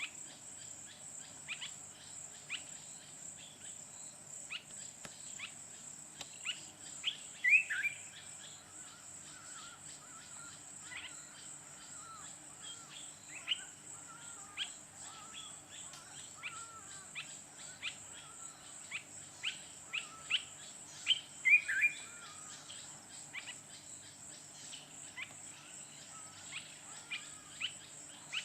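Wild birds calling in short chirps and whistles scattered throughout, loudest about seven seconds in and again around twenty-one seconds, over a steady high-pitched insect drone.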